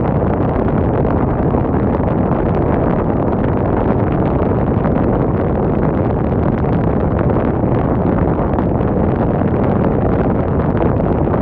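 Wind: a steady, loud, low rushing noise with no gusts or breaks, with wind on the microphone.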